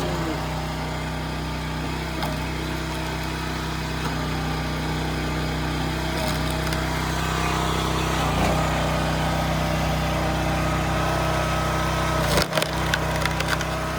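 Small engine of a Wolfe Ridge 22 RS log splitter running steadily, with a quick cluster of sharp cracks near the end as a log splits.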